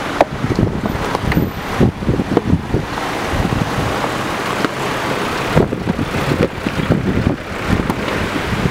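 Car driving, with wind buffeting the microphone in irregular low thumps.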